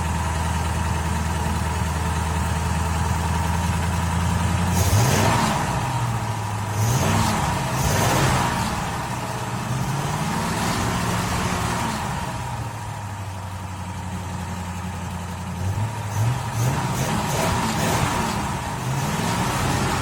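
Car engine idling steadily, blipped several times about five seconds in and again near the end, the pitch rising and falling with each rev.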